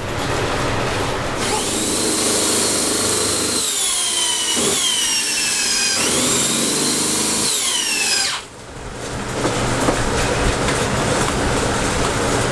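Electric power tool running on wood, its high motor whine dipping in pitch several times and recovering. It cuts off about eight seconds in, and a steady running noise picks up again shortly after.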